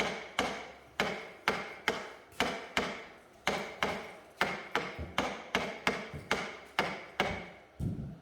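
A steady series of hard strikes, about two a second, each with a short ringing tone as it dies away.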